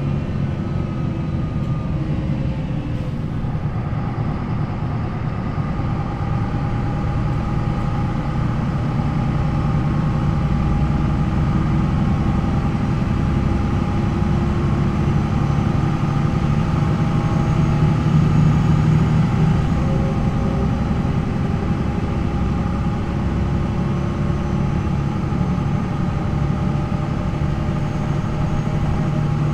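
MAN NL 263 city bus's six-cylinder D28 diesel engine running, with its ZF Ecomat automatic gearbox: a steady low drone with fainter whining tones that slowly drift in pitch, swelling a little about two-thirds of the way through.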